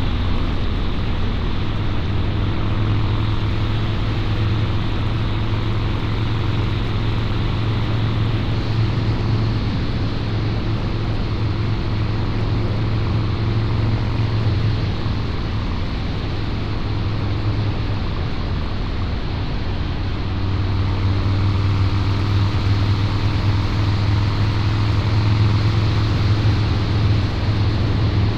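Harley-Davidson Low Rider's 129 cubic inch V-twin with a Two Brothers Racing exhaust, running steadily under way. The exhaust note eases off a little around the middle and picks up again about two-thirds of the way in.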